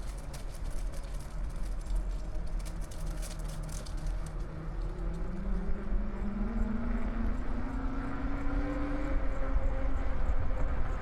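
Low, steady wind rumble on the microphone under the hum of a motor, whose tone climbs slowly in pitch in the second half. Rapid light ticking runs through the first few seconds.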